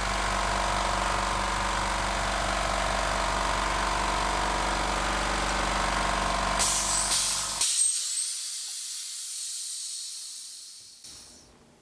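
HBM 6 PK 150-litre low-noise oil-free compressor running steadily until its tank reaches full pressure. About two-thirds of the way in the motors cut out with a few sharp hisses, then a hiss fades away over a few seconds as the head pressure vents.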